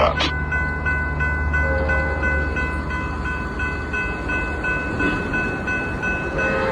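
Diesel locomotive running at rest, with a low engine rumble that eases off after about four seconds and a steady high-pitched whine over it. A short click comes right at the start.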